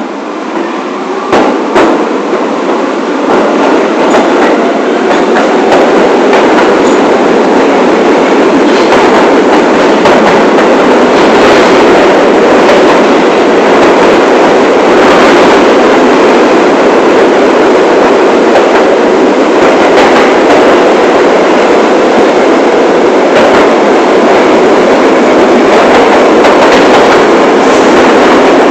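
New York City subway train on the 1 line, heard from the front car, gaining speed and getting louder over the first few seconds, then running steady and loud. Sharp knocks of the wheels over the rail joints come through the rumble.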